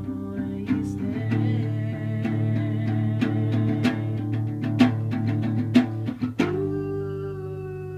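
Guitar playing a quick run of plucked notes over a held low bass note, settling onto a sustained ringing chord about six and a half seconds in.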